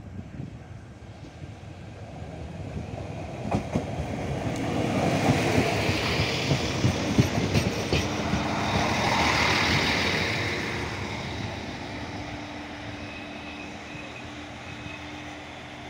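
A train passing close by, its wheels clattering rhythmically over rail joints. It grows louder, peaks about five to ten seconds in, then fades as it moves away, leaving a faint steady hum.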